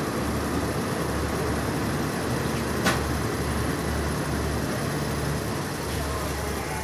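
Passenger train running, a steady rumble of the moving carriage with one sharp click about three seconds in.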